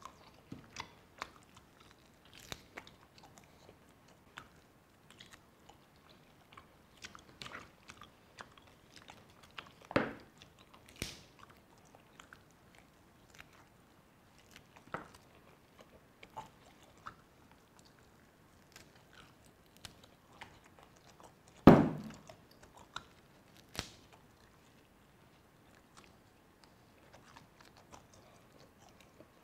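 Gnawing and chewing on roast duck bones and skin: scattered small wet clicks and crunches. A louder crack about ten seconds in, and the loudest, a sharp knock, a little after twenty seconds.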